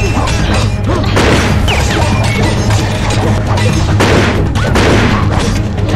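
Action score with a steady low bass line under a fight's sound effects: repeated hits, whacks and crashes.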